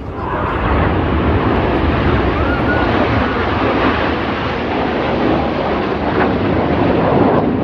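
Formation of BAE Hawk T1 jets flying past, their turbofan engines making a loud, steady rushing noise that rises in at the start.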